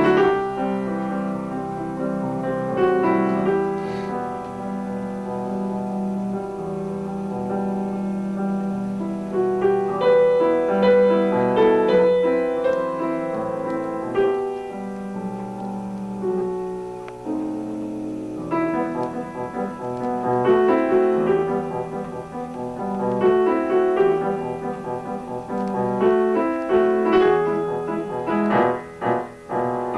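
Piano music: a piece played with a moving melody over chords, the notes changing quickly.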